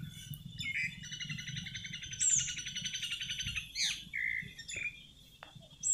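A bird chirping: a rapid, even trill lasting about two and a half seconds, followed by a few short, sweeping chirps.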